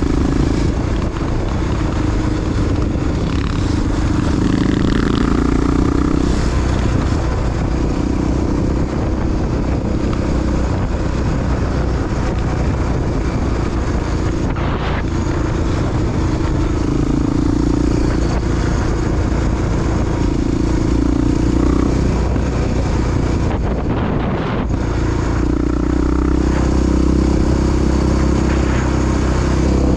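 Big single-cylinder four-stroke Honda XR dual-sport engine running under way, its pitch rising and falling as the rider rolls on and off the throttle, with steady rushing wind noise on the microphone.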